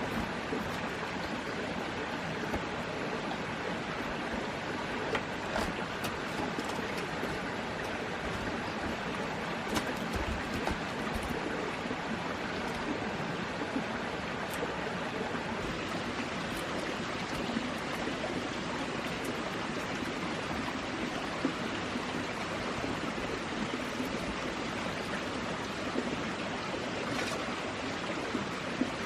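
Steady rush of running water, with a few faint clicks and knocks scattered through it.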